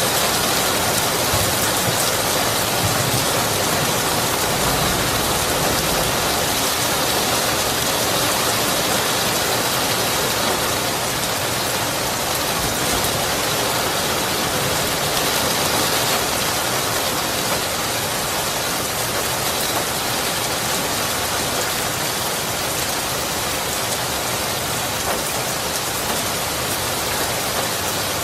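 Steady, heavy rain falling and pattering on surfaces, a dense even hiss with no distinct strikes, easing a little about ten seconds in.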